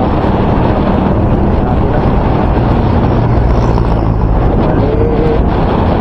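Loud, steady wind buffeting on a microphone wrapped in electrical tape. The tape has not stopped the wind noise.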